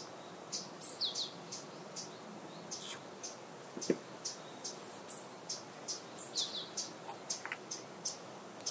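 Small birds chirping on and off, quick high chirps with a few short falling calls among them. One light knock on the wooden tabletop about four seconds in.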